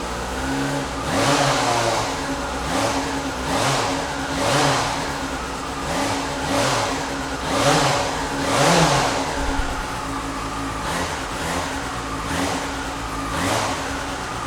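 2008 Yamaha FZ6's 600cc inline-four engine running, its throttle blipped repeatedly. Each blip revs up briefly and drops back to idle, about once a second, before it settles to a steadier idle near the end.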